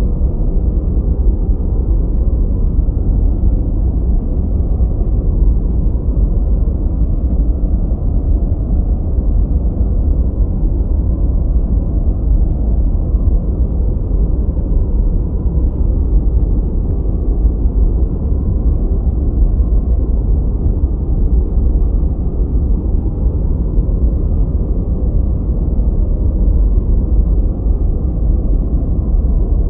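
Steady, deep rushing noise with no tones, rhythm or changes, heavy in the bass and muffled, with almost nothing above the midrange: a low-filtered 'white noise' track, closer to brown noise, made for studying or sleep.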